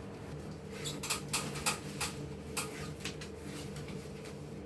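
Scattered light clicks and rustles from hands working pipe insulation and tape, over a steady low hum.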